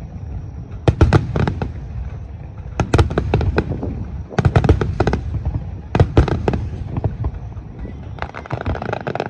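Fireworks finale barrage: volley after volley of sharp crackling bangs in dense clusters over a continuous low rumble of booming shells. The sound cuts off suddenly at the end.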